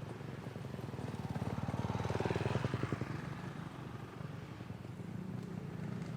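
Motocross motorcycle engine passing, rising to its loudest about two and a half seconds in and then fading.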